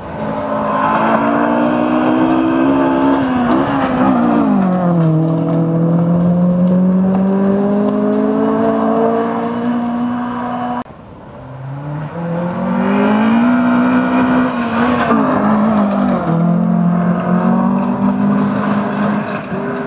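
Rally car engine at full throttle on a gravel stage, its pitch climbing and dropping through gear changes. The sound cuts off suddenly about halfway through, then another rally car's engine rises as it comes up the stage.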